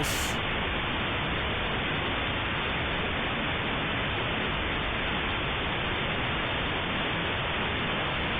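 Steady, even rushing noise of wind and water, with no gusts or separate sounds.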